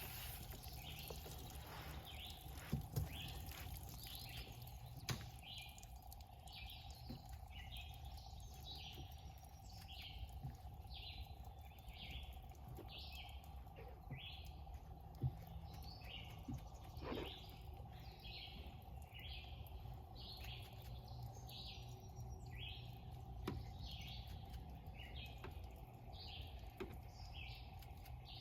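A bird calling outdoors, repeating one short high chirp about once a second. A faint steady hum and a few soft knocks lie underneath.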